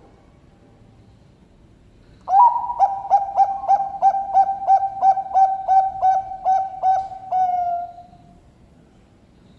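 Zebra dove (Bangkok-strain perkutut) cooing: about two seconds in, a rapid run of roughly fifteen short coo notes, about three a second, ending on one longer held note.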